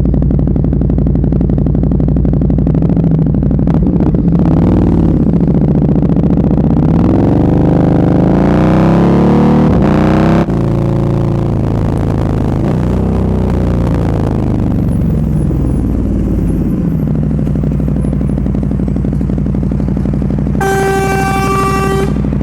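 Motorcycle engine running under way, its pitch rising and falling several times with the throttle, then holding a steady low note. Near the end a horn sounds once, one steady note held for just over a second.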